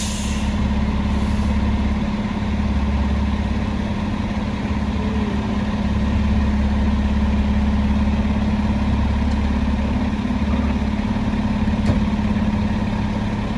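Large vehicle engine idling steadily with a low hum, typical of fire apparatus standing at a fire scene.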